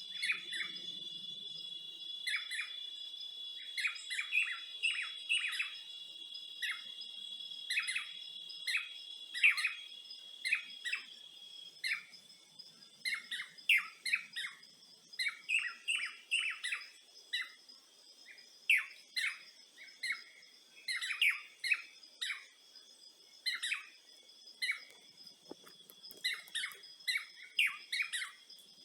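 Songbirds chirping: many short, sharp calls in quick succession, some in rapid runs. A steady high-pitched tone runs beneath and weakens about twelve seconds in.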